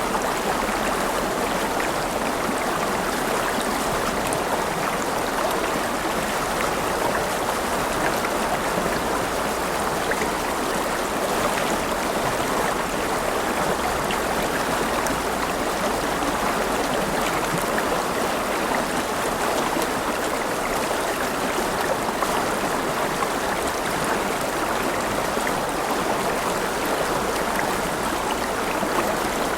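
A river running steadily over stones, a continuous rushing and splashing of water.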